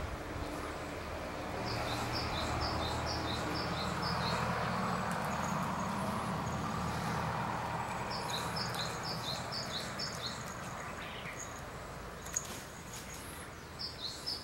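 A small bird calling in quick runs of short, high chirps, about eight notes to a run, three runs in all, over a steady low rumble of background noise.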